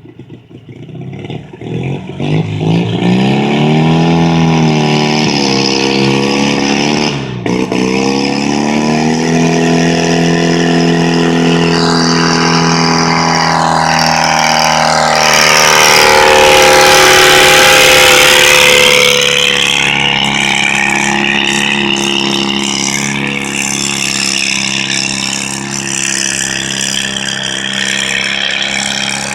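Pulling garden tractor's engine revving up, dipping briefly about seven seconds in, then held at high revs for the rest. It is loudest about halfway through, with a hiss over the engine, then eases off slightly.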